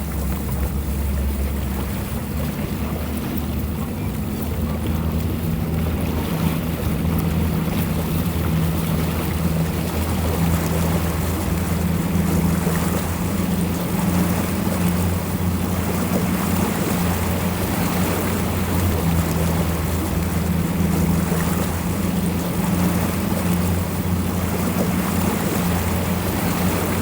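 Motorboat engines running steadily, a low drone, with water and wind noise over it.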